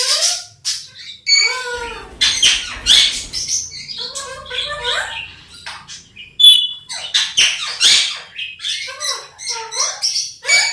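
Pet parrot squawking and chirping in a quick string of short calls, harsh squawks mixed with brief whistled notes that slide up and down in pitch.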